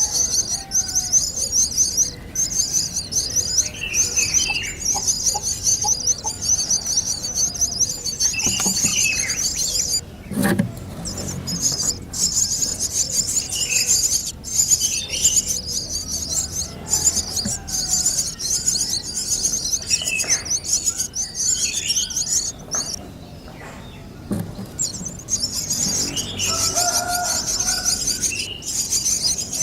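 Birds calling: a dense high-pitched chattering chorus with scattered lower chirps, breaking off briefly twice.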